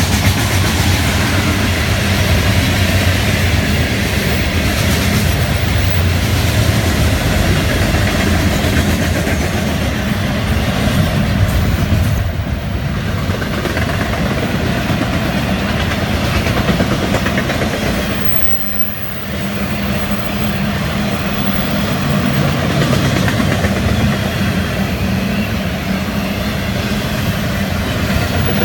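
Florida East Coast Railway freight train's hopper and intermodal cars rolling past at speed: a steady, loud rumble and clatter of steel wheels on the rails, dipping briefly twice midway.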